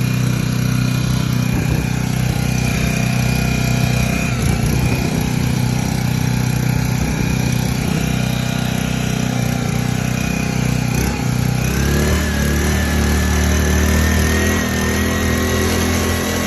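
Small 80cc four-stroke air-cooled outboard motor running at full throttle, held back by its built-in throttle limit. About twelve seconds in the engine note deepens and a faint rising whine comes in.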